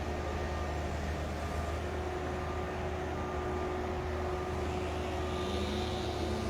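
Steady drone of construction machinery and heavy vehicles running in the distance, a constant low hum with faint, evenly repeated beeping over it.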